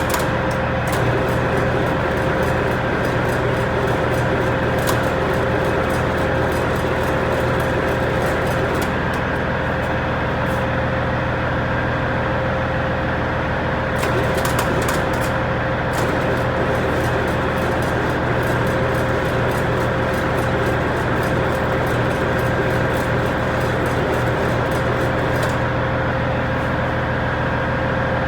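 Engine idling steadily just after a cold start, with irregular light clicks over the even running note.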